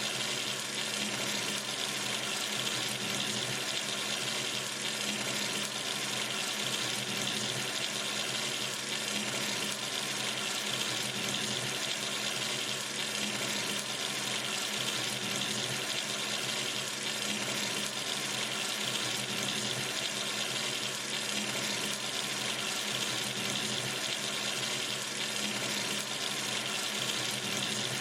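Tap running steadily into a sink, a continuous even splash of water.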